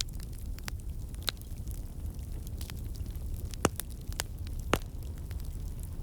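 Fireplace fire crackling: a steady low rumble of flames with scattered sharp pops, two louder ones a little past the middle.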